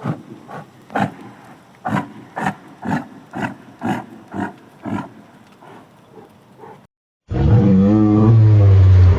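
A large animal calling: a run of short grunting calls about two a second, then, after a brief gap, one long, loud, low roar.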